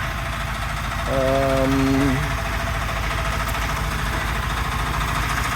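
An engine running steadily, a low even chugging rumble. About a second in, a short held note sounds over it for about a second.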